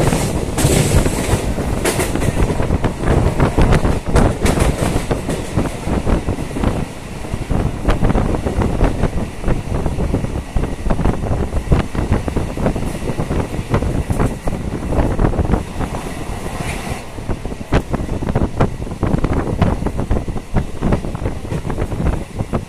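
Suburban local train running on the tracks: a steady rumble with its wheels clattering and knocking over the rail joints.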